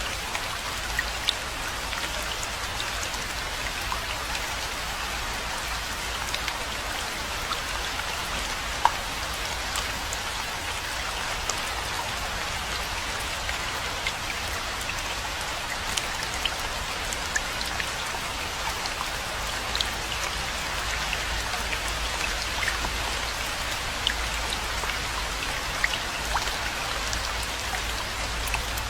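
Steady rainfall: an even hiss of rain with many small, sharp ticks of individual drops scattered throughout.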